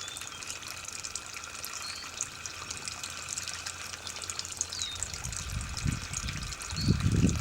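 Steady running, trickling water from water left on at the foot of a tree, with a few faint short bird chirps over it. Low rumbling swells come in about five seconds in and grow louder toward the end.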